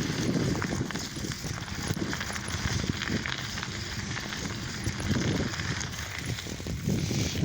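Riding noise on a bicycle: wind buffeting the microphone in irregular low gusts, with scattered knocks and rattles.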